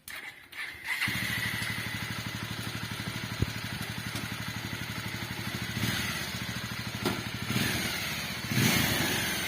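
A motorcycle engine fitted in a homemade mini jeep starts about a second in, then runs with an even pulse. It rises briefly a few times, as if the throttle is blipped.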